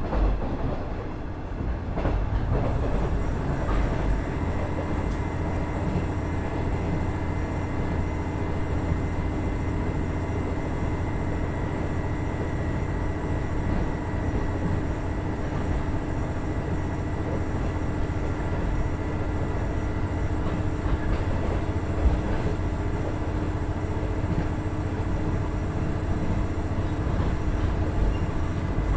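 Onboard running sound of a KiHa 110 series diesel railcar, its Cummins DMF14HZA diesel engine and wheels on the rails making a steady rumble with a low hum. A steady whine comes in a few seconds in, and a single sharp knock is heard about 22 seconds in.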